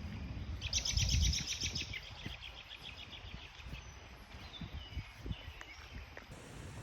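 A songbird singing a fast trill of rapidly repeated high notes, starting about half a second in and lasting about two seconds, followed by a few fainter chirps. Low rumbling and soft thumps sit underneath.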